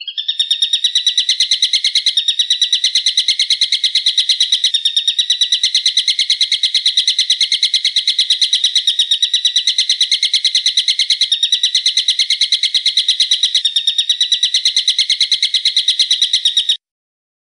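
A bird call made of a fast, even run of sharp, high-pitched notes, several a second, repeated without a pause and then cut off abruptly near the end.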